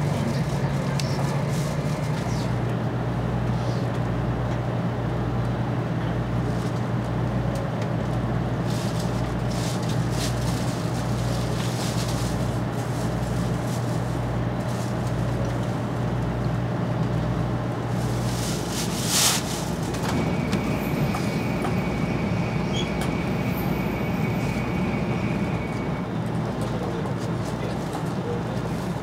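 Cabin sound of a 500 series Shinkansen running slowly alongside a station platform: a steady hum over a low pulsing rumble, both stopping about two-thirds of the way through. A short sharp noise follows, then a faint high steady tone.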